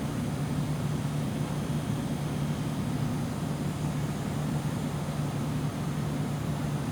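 Bryant ductless mini-split air conditioner running: a steady low hum over an even rush of air, unchanging throughout.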